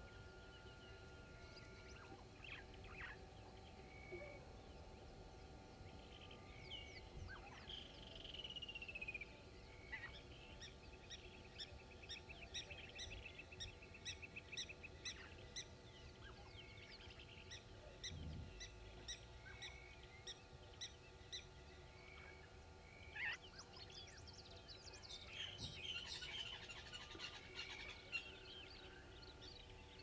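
Several wild birds calling and chirping, with a fast trill about ten seconds in and a busier cluster of calls near the end, over a faint steady hum.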